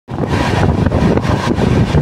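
The Ara–Ranchi Express passenger train running at speed, heard from on board: a steady rumble of wheels on the rails with wind buffeting the microphone.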